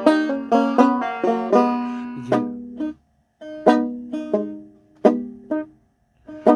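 Banjo played solo, picked notes ringing and decaying in quick runs. The playing breaks off briefly about three seconds in and again near the end.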